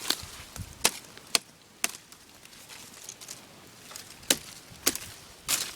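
Briars being chopped back: a series of about seven sharp, snapping cuts at uneven intervals.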